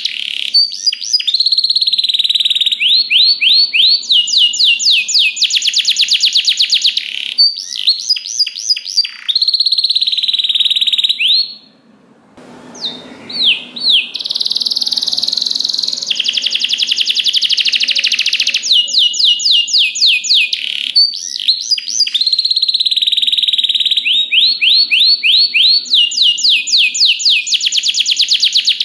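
Domestic canary singing a long, continuous song of rapid trills and rolls, strings of fast-repeated high notes, with a brief pause about twelve seconds in.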